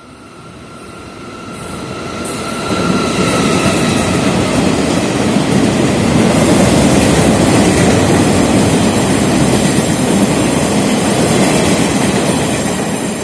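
Locomotive-hauled passenger train running through a station without stopping. It grows louder as it approaches, with a high whine over the first few seconds, then the steady rumble and rattle of the wheels as the carriages go by.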